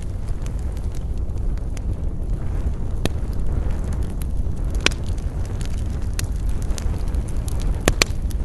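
Wood campfire burning: sharp crackles and pops of burning wood over a steady low rumble, with louder pops a few seconds in, about halfway, and two close together near the end.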